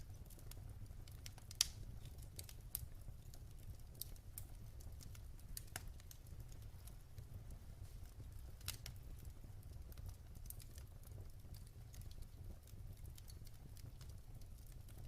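Wood fire crackling in a fireplace: scattered sharp pops and snaps over a low steady rumble, the loudest pop about a second and a half in.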